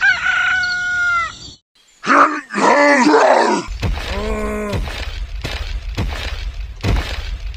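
Dubbed-in sound effect of a man groaning in pain: a brief high whistling tone opens it, then one longer groan, then a regular string of short moans.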